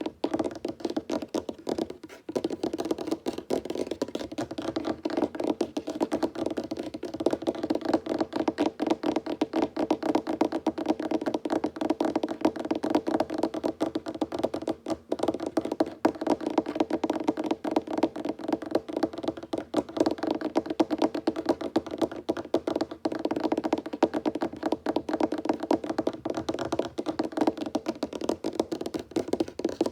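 Fingers tapping fast on a wooden tabletop, a dense unbroken patter of quick knocks, with a brief let-up about two seconds in.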